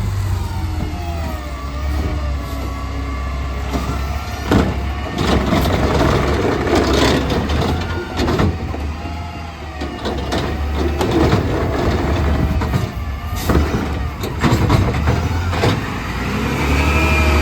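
Garbage truck running, its engine revving up and down repeatedly, with several sharp bangs and clanks during the collection.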